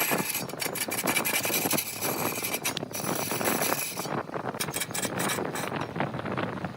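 Turning tool cutting into wood spinning on a large wood lathe. It starts suddenly with a harsh scraping rasp and runs on, dense with small clicks and ticks.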